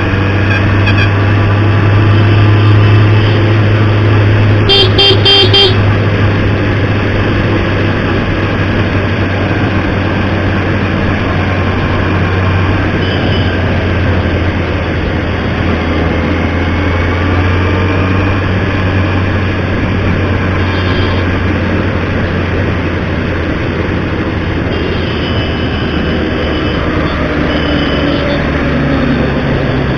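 Road traffic with a steady engine drone and a vehicle horn beeping several times in quick succession about five seconds in, with fainter horns later.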